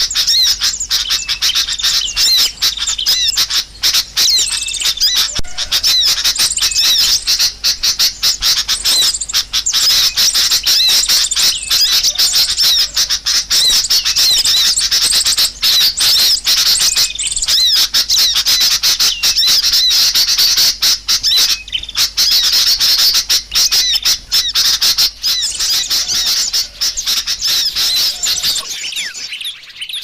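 Small birds chattering in a dense flock, with rapid overlapping chips and twitters. This is a bird-lure recording used to draw small birds in. The chatter breaks off briefly near the end.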